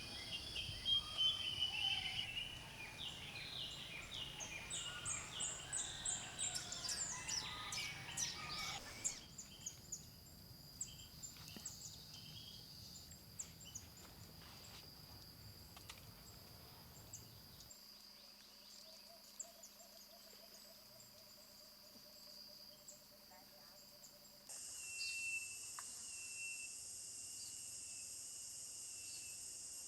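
A run of short field recordings of different wild birds calling and singing, with quick chirping phrases at first and sparser calls later, over a steady high insect drone. The background changes abruptly a few times where one recording gives way to the next.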